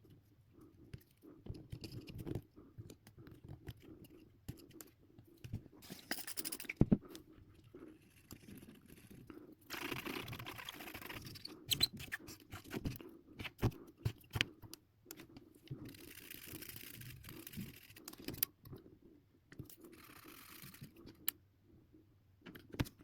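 Hands working on the plastic and metal parts of a PlayStation 4 console: scattered clicks, taps and scraping, with four brief hissing or brushing noises.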